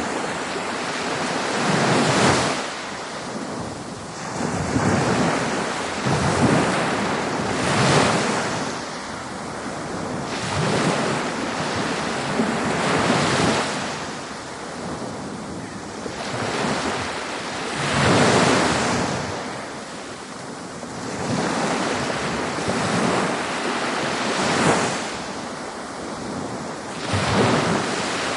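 Ocean waves breaking on a beach, a steady wash of surf that swells into a louder surge every few seconds.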